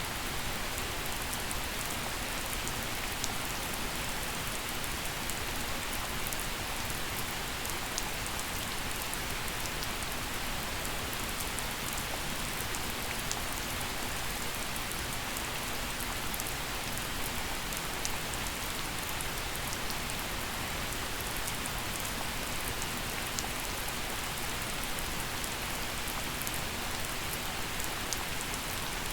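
Steady gentle rain falling, an even hiss with many small drop ticks and no thunder.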